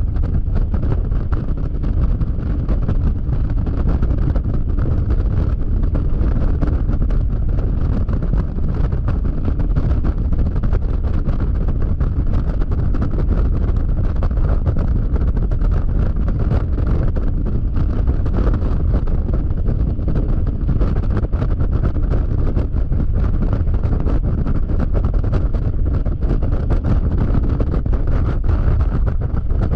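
Steady heavy wind buffeting the action camera's microphone while riding a Yamaha XMAX scooter at highway speed, with the scooter's engine and road noise running underneath.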